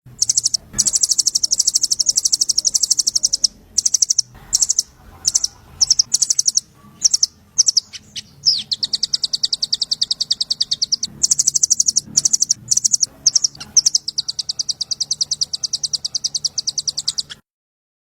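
Small songbird singing a high, very fast trill of repeated chirps in long runs broken by short pauses. It is the rattling 'trotol' pattern used as masteran for training songbirds. It cuts off suddenly near the end.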